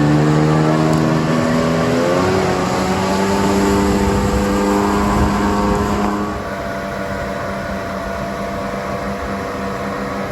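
Jet ski engine running under way, a steady pitched drone over wash and wind noise. Its pitch shifts about two seconds in, and about six seconds in it gets quieter as the engine note fades.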